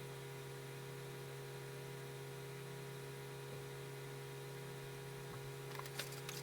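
Steady electrical mains hum with evenly spaced overtones, with a few faint short clicks near the end.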